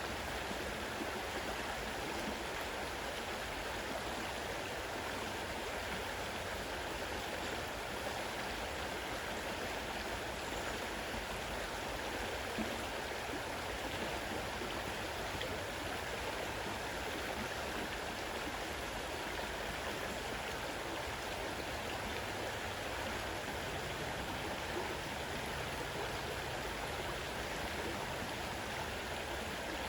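Fast-running river water rushing steadily over rocks, an even, unbroken flow.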